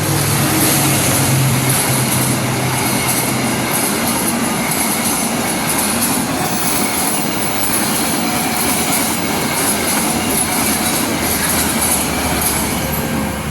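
A train running through a level crossing: a low engine hum early on from the passing diesel locomotive, then a continuous loud rush of carriages with wheels clattering over the rail joints.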